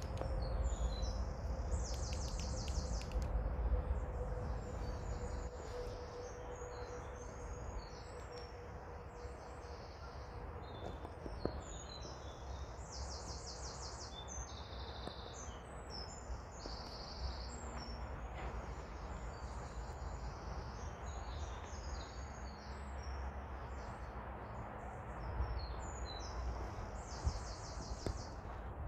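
Wild birds singing, many short high calls with a quick trill every several seconds, over a steady low rumble.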